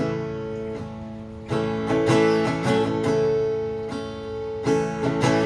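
Acoustic guitar strumming chords between sung lines, with a few fresh strums ringing out.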